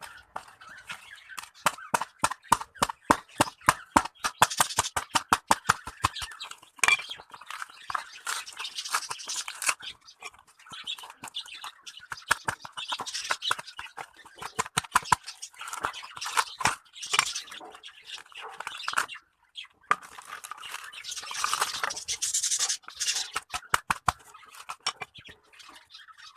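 Pet finches in a cage: fast runs of short sharp clicks, about seven a second, with patches of scratchy high-pitched rustling between them.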